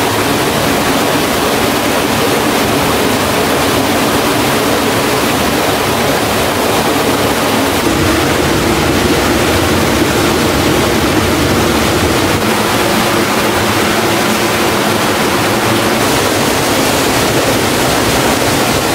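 Steady rush of water falling down a stream waterfall.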